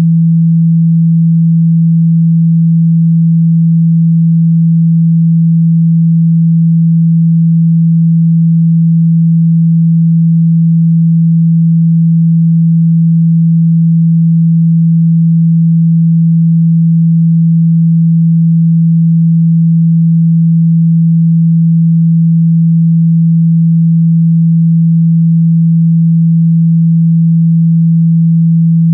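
A steady 165 Hz sine tone, held unchanged and loud. It is the low test tone played through a phone or device speaker to vibrate water and dust out of it.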